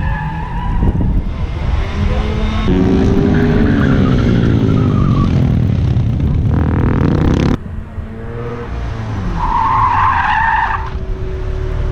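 Sport motorcycle engines running hard on a race track, their pitch gliding up and down as they rev and shift. The sound cuts off abruptly about seven and a half seconds in, then another high whine rises near the end.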